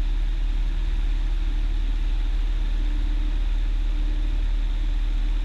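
Cessna 172's piston engine and propeller droning steadily in the cockpit in cruise on approach, heard as a muffled low hum made of several steady tones.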